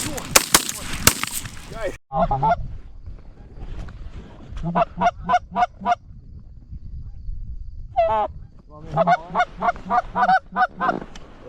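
A quick volley of shotgun shots in the first two seconds, then an abrupt cut, then two runs of short goose honks in rapid succession.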